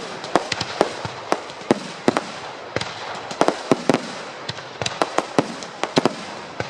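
Fireworks display: an irregular string of sharp bangs from bursting shells, about two or three a second, over a steady noisy background.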